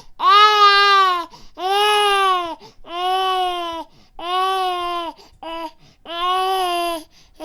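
Infant crying in repeated wails, each about a second long with a short breath between. There are five long wails, with a brief short cry between the fourth and fifth.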